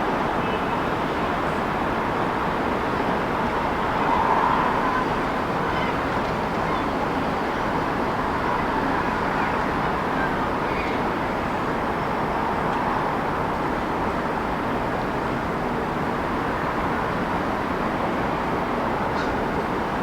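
Steady city traffic noise, a continuous wash of passing vehicles, with a brief louder swell about four seconds in.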